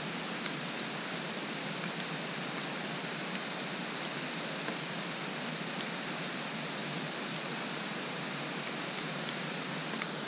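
Steady rain falling, an even hiss, with a few faint drops ticking now and then.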